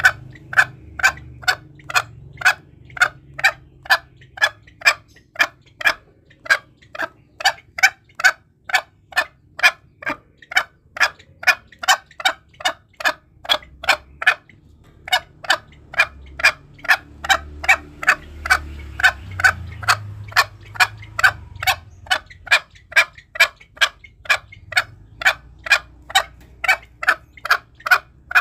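Green junglefowl calling: a rapid train of short, evenly spaced clucking notes, about two or three a second, with a brief break about halfway through.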